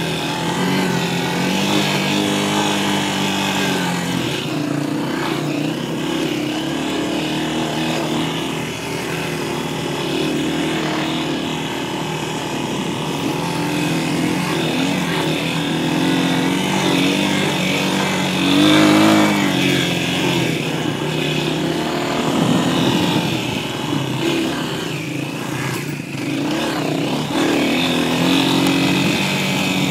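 Dirt bike engine running under riding, its pitch rising and falling as the throttle is opened and closed, with its loudest, highest rev about two-thirds of the way through.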